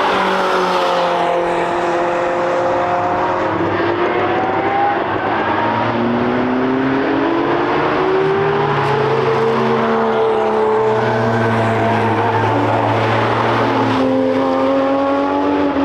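Car engines on a racetrack passing close by, with the pitch rising and falling as they rev and shift. At times two engines are heard together.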